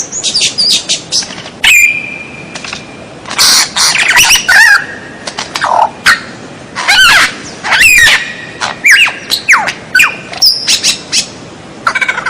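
White-rumped shama (murai batu) singing a fast, varied song of clear whistles, rapid rising and falling sweeps and harsher squawk-like notes, with short pauses between phrases.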